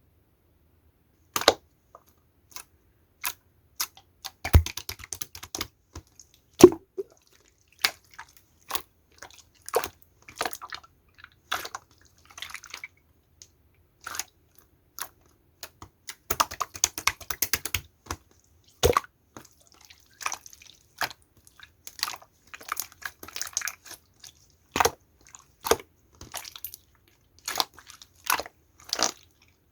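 Clear slime being pressed and pulled by hand: sharp sticky clicks and pops, some single and some in quick crackling runs, with short silences between. The runs are busiest about halfway through and near the end.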